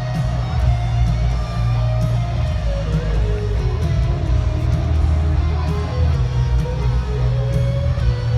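Rock music: an electric guitar plays a wandering melodic lead over heavy bass and drums with crashing cymbals.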